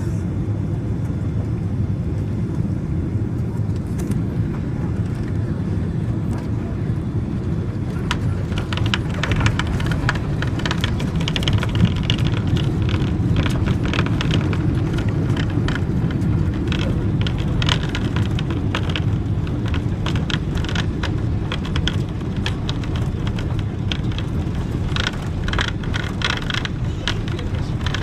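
Steady low rumble of an airliner cabin after landing, with irregular clicks and rattles joining about eight seconds in.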